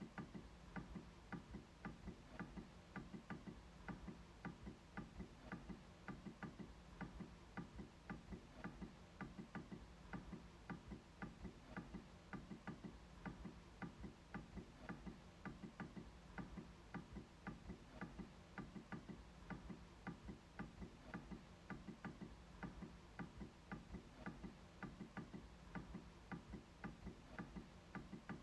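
MacBook trackpad being clicked over and over, a faint run of short sharp clicks at about three a second, slightly uneven in spacing.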